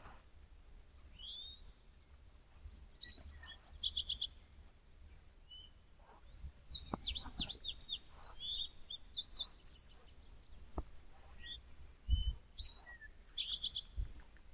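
Wild songbirds chirping and singing in woodland, with short repeated trilled phrases at about four seconds in and again near the end. A few sharp clicks and two soft low thumps come near the end.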